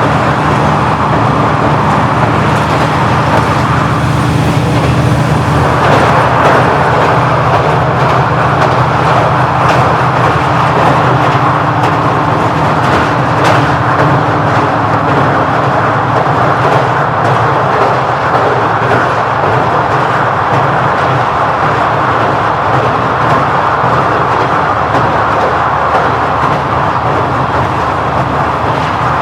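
KiHa 40-series diesel railcar running on its original engine, a steady drone with rail and running noise; some of the engine's tones fade out about halfway through.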